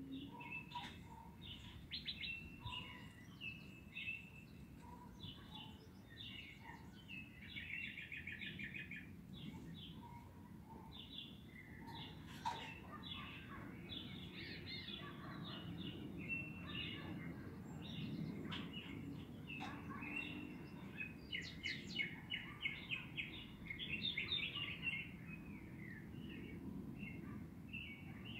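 Small birds chirping and trilling on and off, with one rapid trill about eight seconds in, over a steady low background rumble.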